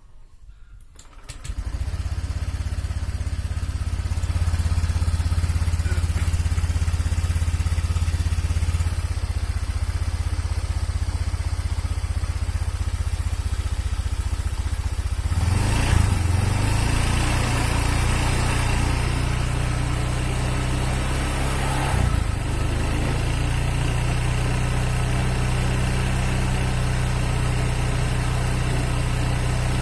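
Honda Vario 125 fuel-injected scooter's single-cylinder four-stroke engine catching about a second in and then idling steadily, its sound growing fuller about halfway through. The uploader puts its rough running down to a piston worn loose in the cylinder, which leaves it with weak compression and makes it hard to start.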